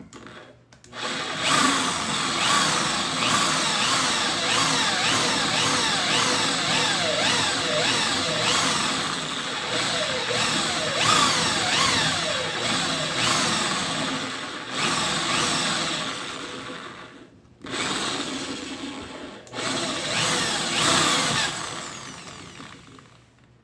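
Small electric drill running under load. It starts about a second in, with its pitch repeatedly dipping and recovering as it bites, and is switched off and on twice near the end.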